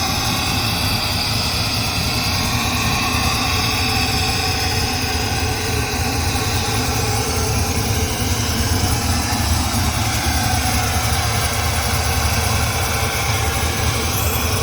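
1999 Pontiac Trans Am Firehawk's rebuilt LS1 V8, with an aftermarket cam, stainless long-tube headers and an SLP muffler, idling steadily while it warms up after a cold start.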